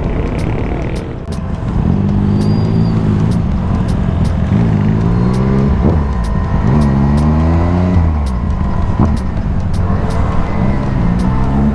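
Vespa S125 scooter's single-cylinder four-stroke engine pulling under throttle on the road. Its pitch climbs and falls back several times as it accelerates, freely revving through the Malossi CVT.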